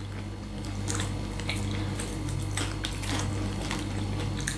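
Close-miked chewing of roast chicken: scattered soft, wet mouth clicks and smacks over a steady low hum.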